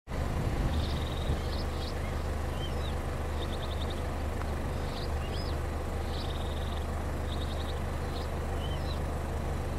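A small songbird singing the same short phrase of chirps and a rapid trill, about four times, over a steady low rumble.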